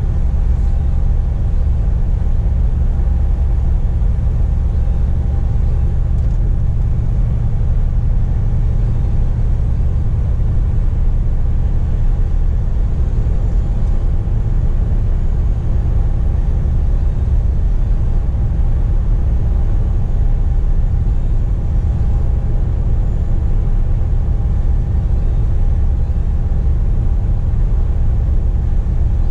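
Scania P420 truck's straight-six diesel and road noise heard from inside the cab while driving at steady speed: a constant low rumble with a faint steady whine above it.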